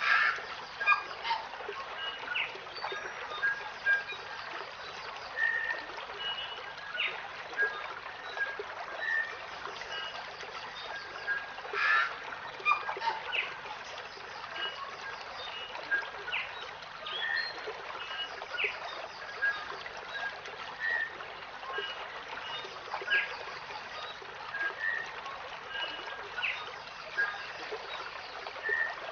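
Wild birds calling, many short chirps and whistles scattered irregularly over a steady hiss.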